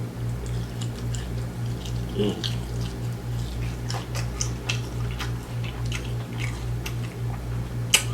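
Close-miked chewing of crispy fried food, with scattered small crunches, clicks and wet mouth sounds and one sharper click near the end. A steady low hum runs underneath.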